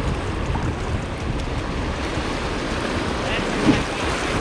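Steady rush of fast-flowing floodwater around a kayak, with wind buffeting the microphone, and one short bump about three and a half seconds in.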